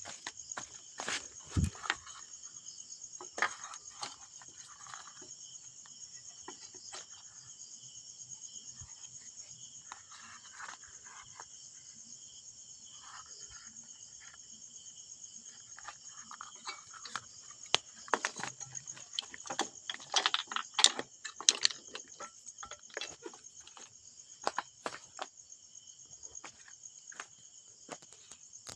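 Crickets chirping steadily, with scattered sharp clicks and clinks of small parts being handled, thickest about two-thirds of the way through.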